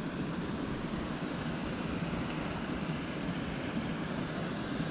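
Steady rushing roar of a large waterfall, an even noise that holds without change.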